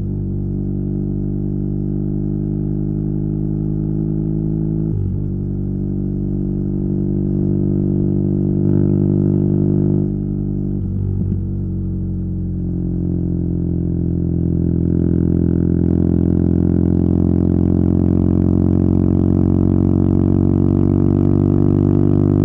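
BMW R nineT's air/oil-cooled boxer twin running through a Competition Werkes slip-on exhaust while riding. The engine note is steady, with two brief breaks about five and eleven seconds in, then rises slowly in pitch as the bike pulls faster.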